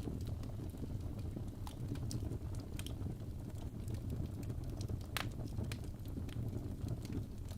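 Wood fire burning in a fireplace: a steady low rumble of the flames with scattered sharp crackles and pops from the burning logs, one louder pop about five seconds in.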